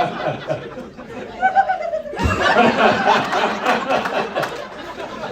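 Audience laughing, with a brief high, bird-like laugh from one audience member about a second and a half in. Then the crowd's laughter swells at about two seconds and slowly dies down.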